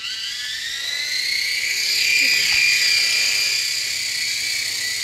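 Air Hogs Sharpshooter toy RC helicopter's small electric motors and rotors spinning up. A high whine rises in pitch over the first couple of seconds, then holds steady as the rotors run fast.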